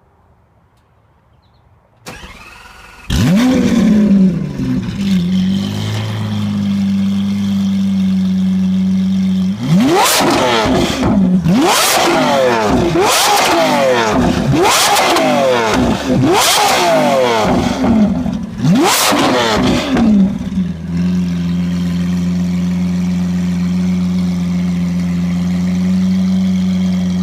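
Lamborghini Aventador's 6.5-litre V12, breathing through a straight-through decat Kreissieg exhaust, cranking and firing about three seconds in with a loud flare before settling to a steady idle. From about ten seconds in it is blipped sharply to high revs six or seven times, each rev dropping back quickly, then it returns to idle.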